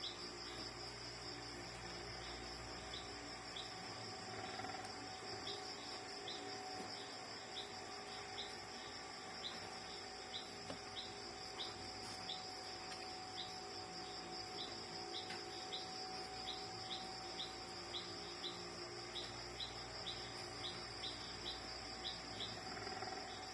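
Insects chirping steadily in the background: a continuous high trill with short repeated chirps, about two or three a second, and a faint steady hum underneath.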